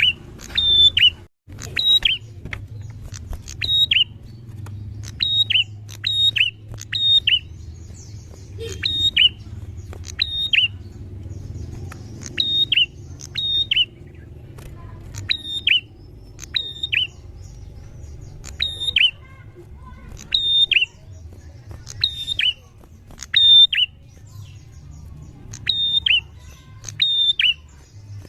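Prinia (prenjak) calling repeatedly in loud, sharp notes that each drop in pitch, in quick runs of two or three, about one run every second or so. A steady low hum runs underneath.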